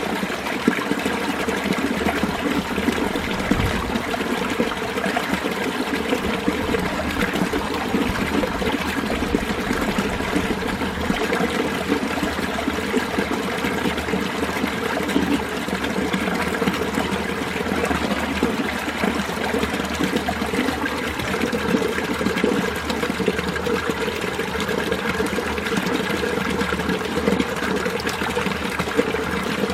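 Mountain valley stream running steadily, a continuous sound of flowing water with no breaks.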